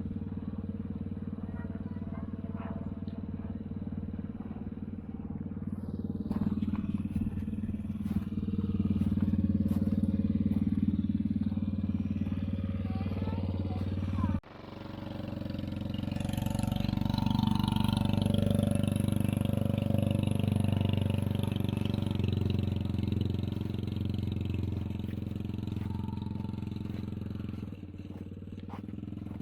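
The 110cc single-cylinder engine of a homemade kids' car running steadily as the car is driven, its sound swelling louder twice. The engine sound cuts off abruptly about halfway through and comes straight back.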